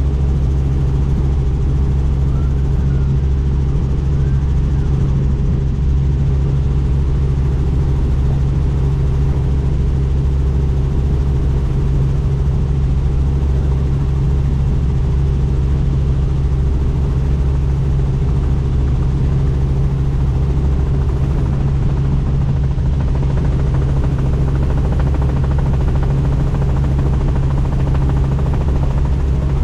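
Helicopter in flight: a steady, loud, low drone of rotor and engine that holds even throughout, with a haze of rushing air over it.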